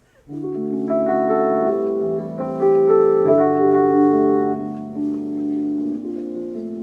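Keyboard playing slow, held chords to open a song, starting a moment in.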